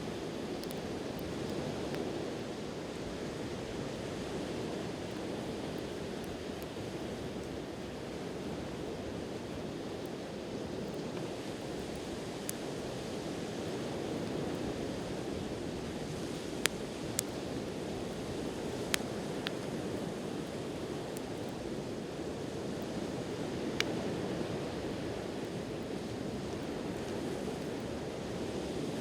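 Waves washing on the shore in a steady, gently swelling rush, with a few sharp pops from a wood campfire crackling, most of them in the second half.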